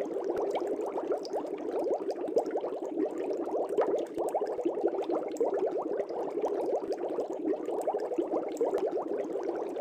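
Aquarium air bubbles rising and popping in a dense, continuous stream of quick little bubbling pops.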